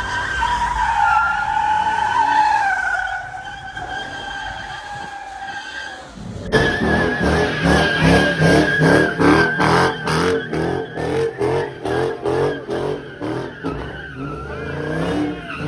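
Car tires squealing steadily in a burnout or donut, then, after an abrupt cut, the squeal goes on under an engine revving in rapid pulses, about three a second.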